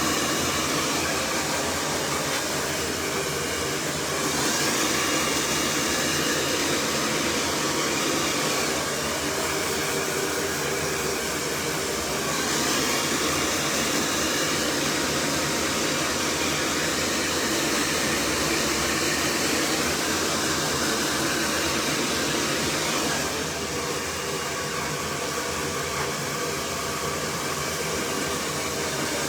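Cloud 9 hair dryer blowing steadily on full heat and its highest setting, a loud rush of air whose tone shifts a few times as it is moved.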